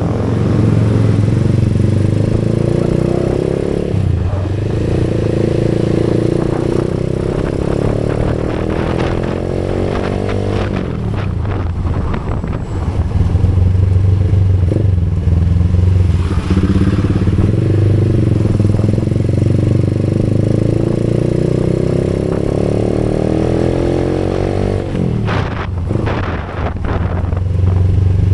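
Motorcycle engine running on the move, its pitch rising slowly as it picks up speed and dropping twice, about ten seconds in and near the end. A brief rush of noise comes with each drop.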